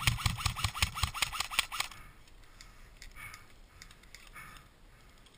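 Airsoft gun firing a fast, evenly spaced string of shots, about eight a second, each with a short mechanical whine. It stops about two seconds in, leaving a few faint scattered shots.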